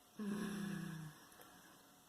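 A woman's closed-mouth "mmm" of enjoyment while tasting a chocolate tray bake: one hum of under a second, falling slowly in pitch.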